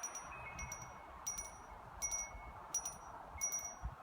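Metal wind chimes stirred by the breeze, struck irregularly every half second or so, each strike ringing on in several high clear tones over a steady wind hiss.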